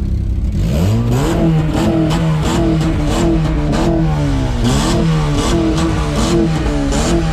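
A car engine revved from idle, climbing about half a second in and then blipped up and down over and over in quick succession.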